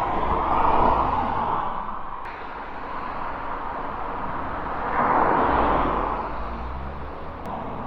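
Road traffic passing: two vehicles go by, one about a second in and another about five seconds in, each swelling and then fading away.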